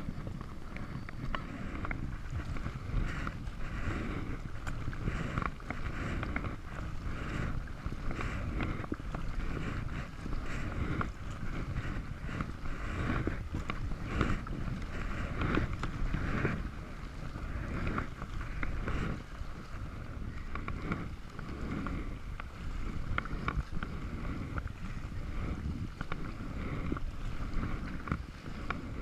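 Kayak paddle dipping and splashing in the water in repeated strokes, about one a second, with wind rumbling on the microphone.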